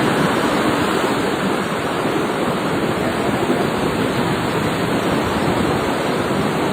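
Ocean surf making a steady, unbroken rushing sound.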